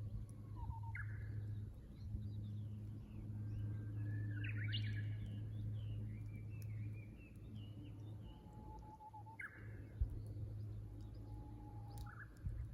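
Japanese bush warbler (uguisu) singing its "hoo-hokekyo" song: a held, low whistled note, then a quick rising flourish, heard about a second in, again about nine and a half seconds in, and once more near the end. Between them comes a run of quicker chirping notes, over a steady low hum.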